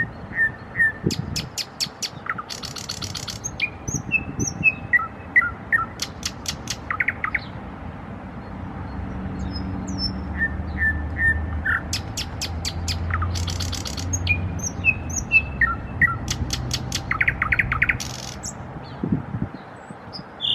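Nightingale singing: its song runs through whistled notes, rapid series of sharp clicks and dry buzzy rattles, in a sequence it repeats about ten seconds later. A low rumble sits under the song in the middle of the stretch.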